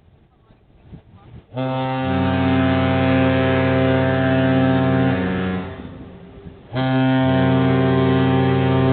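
Ship's horn of the lake freighter Wilfred Sykes sounding two long, deep blasts, each a chord of several steady tones. The first starts about a second and a half in and lasts about four seconds; the second starts about seven seconds in and is still going at the end.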